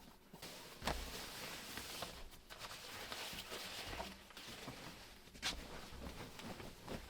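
Rustling and shuffling handling noise with a few sharp knocks, loudest in the first half.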